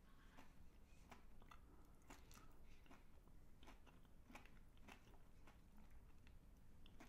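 Quiet close-miked chewing of a Magnum chocolate bar with the mouth closed: soft, irregular wet mouth clicks and small crunches.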